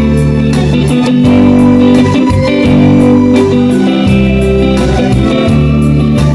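Band music: an instrumental passage led by guitar over bass and a steady drum beat, with no singing.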